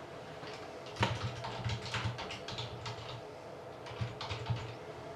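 Typing on a computer keyboard: a run of quick key clicks starting about a second in and stopping shortly before the end, entering the team list into an online randomizer.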